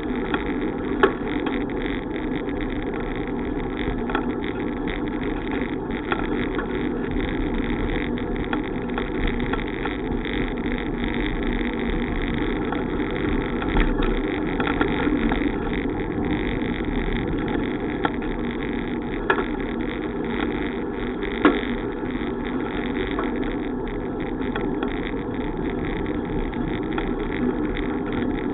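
Steady rushing noise of riding a bicycle: wind on the microphone and tyre noise on the road, with a few sharp clicks or knocks from bumps.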